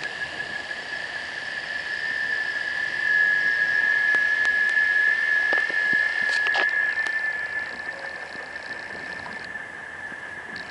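Cicada orni cicadas singing: a steady, high-pitched drone that grows louder about three seconds in and eases back after about seven seconds. A higher, rapidly ticking layer comes in about seven seconds in.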